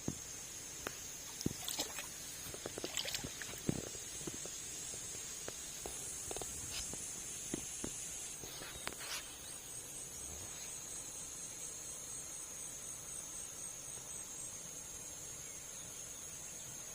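Jungle insects, most likely cicadas or crickets, making a steady high-pitched drone. Scattered clicks and knocks sound during the first four seconds.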